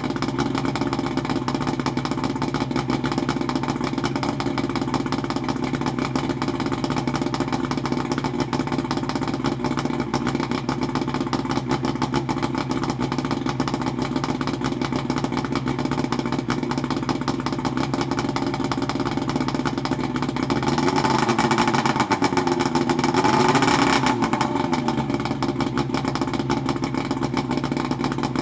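1972 Johnson 65 hp two-stroke outboard motor running steadily, revved up briefly about three-quarters of the way through, then settling back to its steady running.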